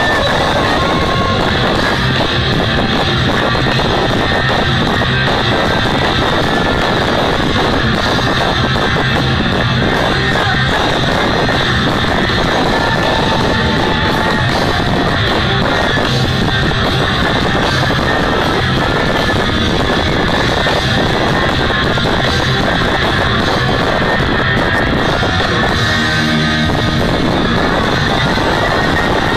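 Loud rock music with electric guitar, playing steadily without a break.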